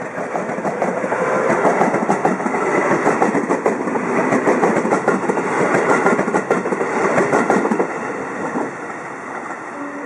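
A train running on the rails close by, its wheels clattering over rail joints in rapid clicks, dying down after about eight seconds.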